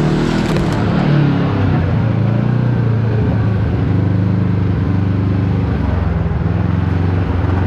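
Kawasaki KRX4 1000 side-by-side's parallel-twin engine running steadily under load, heard from on board.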